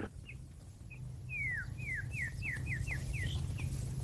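A small bird calling: a quick run of about seven short chirps, each sliding down in pitch, over a low steady hum.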